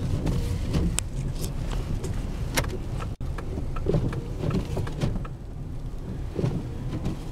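Pickup truck's engine and road noise heard inside the cab while driving on snowy roads: a steady low rumble with scattered light clicks and knocks.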